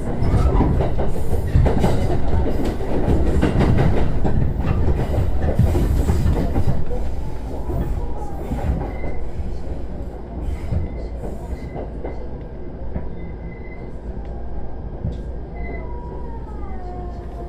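JR East E129 series electric train running, with the wheels clattering over rail joints. The running noise eases after about eight seconds, and a falling whine comes in near the end as the train slows.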